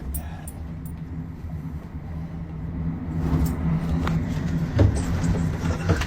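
A vehicle engine running at a steady low hum, with a few faint clicks and knocks over it.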